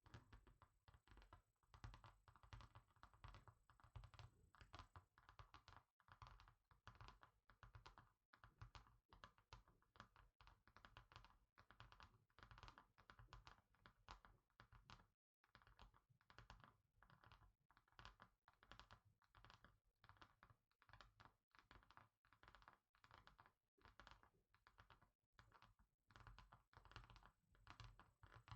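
Quiet, rapid tapping of fingers on a hard surface, many light taps a second in quick runs, broken by a few short pauses.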